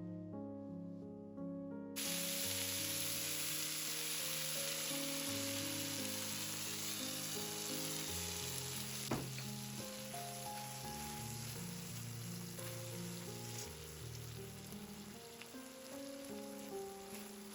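Food sizzling in hot oil in a frying pan, starting suddenly about two seconds in as it goes into the pan, with one sharp knock about halfway through. Background music plays throughout.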